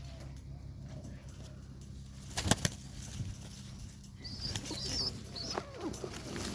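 Serbian highflyer pigeons moving about in a loft: a sharp pair of wing flaps about two and a half seconds in, then faint soft calls and scuffling later on.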